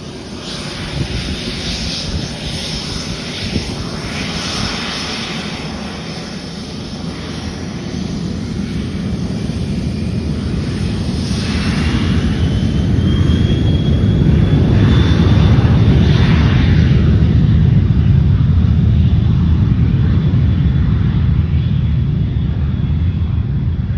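Airplane engines running and growing louder: a low rumble builds over the second half, with a thin whine rising in pitch through the middle.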